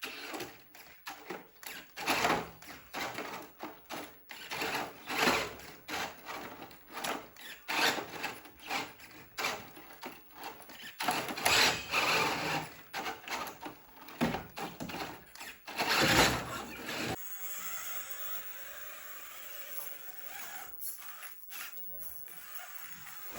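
Small electric motors of remote-control toy cars whirring in short, irregular bursts as they are driven. After about three quarters of the way through the bursts stop and only a faint steady hiss remains.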